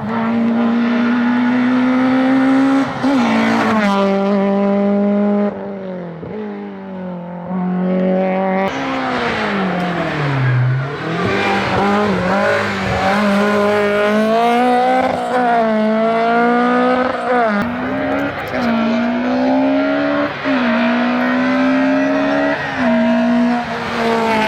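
Hill-climb race car engine at full throttle, revs climbing and then dropping sharply at each upshift. About ten seconds in the revs fall away as the driver lifts and brakes, then it pulls up through the gears again several times.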